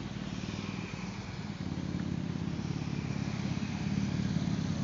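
Motorcycle engine running steadily, growing louder toward about four seconds in.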